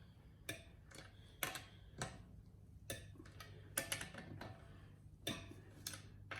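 Socket wrench clicking as the wheel's lug nuts are tightened in a star pattern: sharp, single clicks spaced unevenly about half a second to a second apart.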